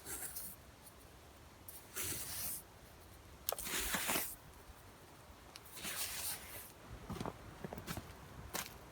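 Several short rustling, scraping sounds, each about half a second to a second long, with a few sharp clicks between them.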